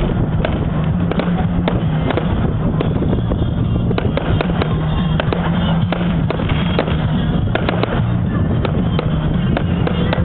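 Fireworks display: a rapid, irregular run of sharp bangs and crackling reports, with music playing steadily underneath.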